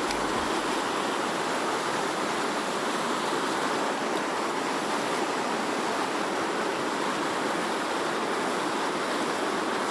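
Steady rush of a mountain stream's water running over rocks.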